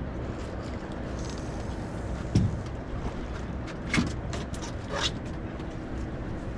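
Boat engine running at idle, a steady low hum, with a dull knock a couple of seconds in and two short sharp clicks or swishes later on.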